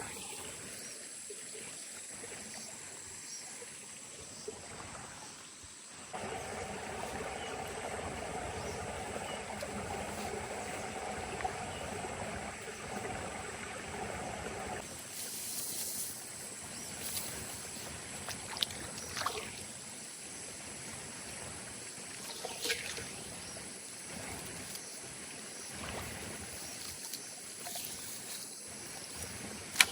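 Water sloshing and trickling, louder for several seconds early on, with a few sharp ticks later.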